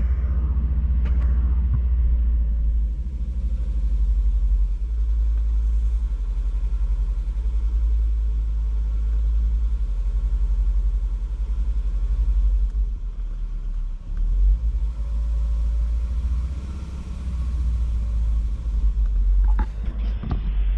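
Volvo 2.4 non-turbo inline-five engine idling with a steady low rumble, while it misfires on cylinder 1; swapping the coils has not moved the misfire, so the coil is ruled out.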